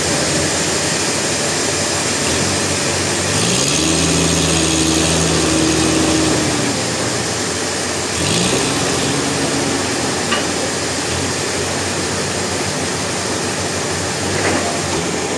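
An engine running under steady mechanical noise. It revs up twice: once about three and a half seconds in, holding the higher pitch for about three seconds, and again about eight seconds in.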